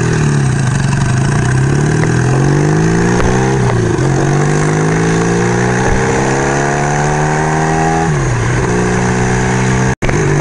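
1975 Kawasaki KZ400 motorcycle engine pulling through the gears: its pitch climbs, drops at a gear change about four seconds in, climbs again for several seconds, then drops at another shift near the end and holds steady.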